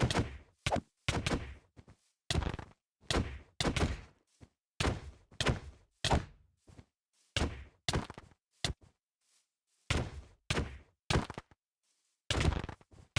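A series of separate dull thuds, each with a short dying tail, irregularly spaced at roughly one every half second to a second, with silence between them.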